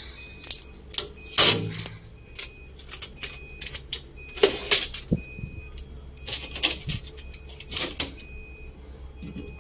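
Packing tape being pulled off a new refrigerator's plastic fittings: a series of irregular short rips and crackles with light clicks.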